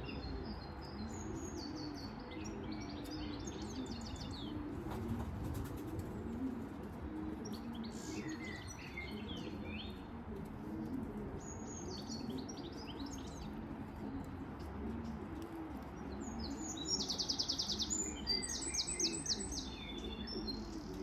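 Small songbirds chirping and twittering, with a fast trill of evenly spaced notes about 17 seconds in, over the low, repeated cooing of pigeons.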